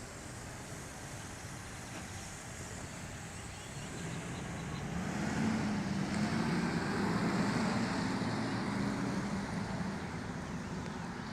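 A car passing on the road: its engine and tyre noise swell from about four seconds in, hold for a few seconds, then fade away, over steady outdoor background noise.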